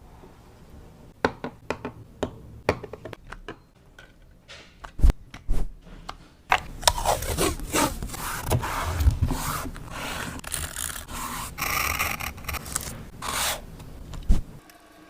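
Art-journaling paper and stationery being handled: a string of light taps and clicks, then several seconds of crunchy rubbing and scraping against paper that stops suddenly near the end.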